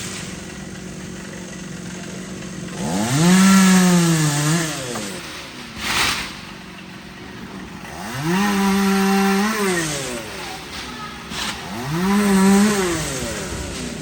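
Chainsaw engine idling and revving up three times, each rev rising in pitch, holding briefly and dropping back to idle, with a sharp knock about six seconds in.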